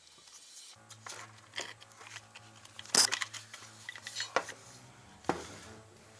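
A few sharp clicks and knocks, the loudest about three seconds in, as the parts of a Zubr angle grinder are handled and fitted back together during reassembly. Quiet background music underneath.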